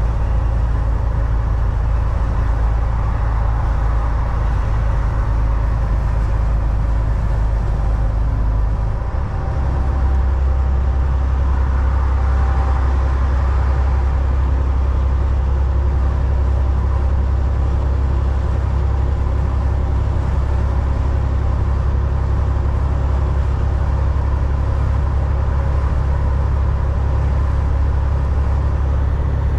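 Semi truck cab at road speed, a Volvo VNL 760: a steady low diesel engine drone with road noise. About nine seconds in the level dips briefly and the engine drone comes back at a changed pitch.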